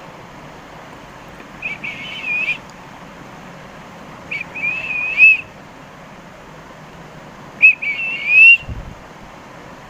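Indian ringneck parakeet whistling: three short warbling whistled phrases, each about a second long, a few seconds apart.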